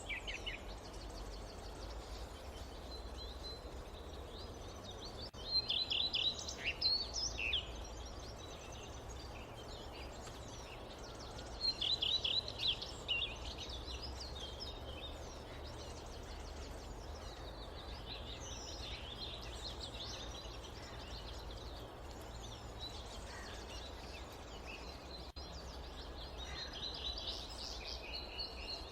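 Forest ambience: small birds calling in bursts of rapid, high chirps, loudest about five and twelve seconds in, with scattered calls after that, over a steady low background noise.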